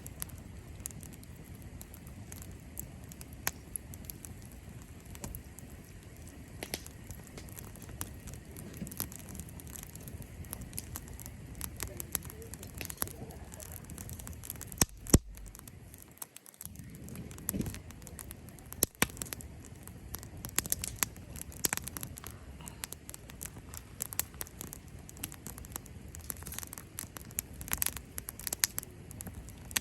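Cherry-wood campfire crackling and popping, with scattered sharp snaps over a low steady rumble and one loud pop about halfway through.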